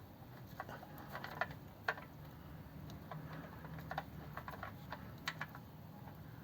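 Irregular light metallic clicks and taps of a wrench working loose the engine sump drain plug on a 1957 Ford Thunderbird, with two sharper clicks about one and a half and two seconds in.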